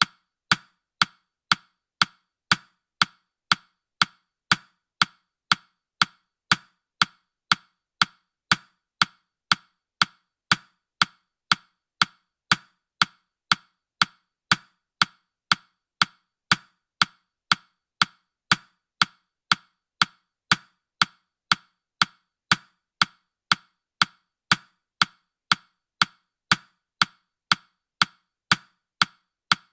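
Countdown timer's ticking sound effect: sharp, wood-block-like clicks, evenly spaced at about two a second.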